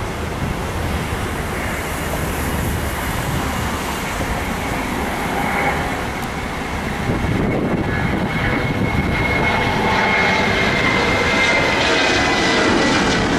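Jet airliner engines running: a broad rumble, with a thin high whine that comes in about halfway and grows louder near the end.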